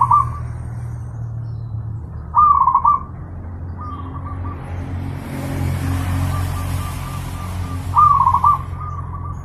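Zebra dove (perkutut) cooing: short phrases of rapid stuttering coo notes, the loudest right at the start, about two and a half seconds in and about eight seconds in, with fainter phrases between. A steady low hum runs underneath.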